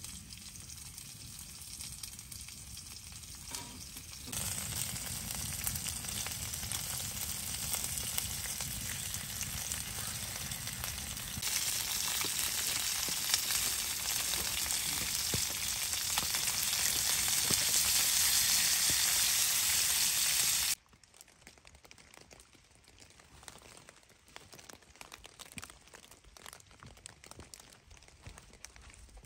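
Meat and tomato slices sizzling in a skillet on a small wood-burning stove, a steady frying hiss that jumps louder twice. About two-thirds of the way through it cuts off abruptly, leaving a much quieter background with scattered faint clicks.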